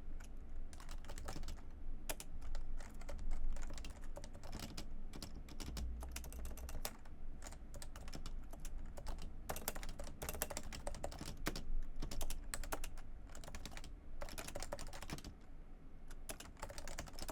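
Typing on a Realforce R2 keyboard with Topre switches: a fast, continuous run of irregular keystrokes with the occasional louder stroke.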